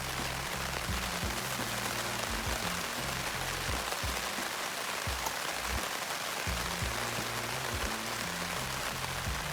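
Steady rain falling, an even hiss, over background music whose low notes drop out in the middle and return about two-thirds of the way in.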